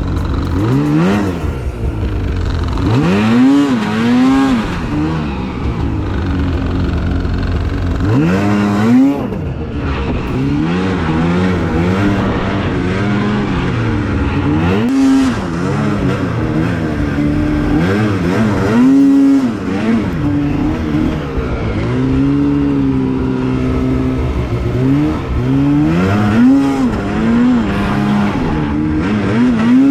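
Two-stroke snowmobile engine revving hard and easing off again and again, its pitch rising and falling with the throttle as the sled runs through deep powder.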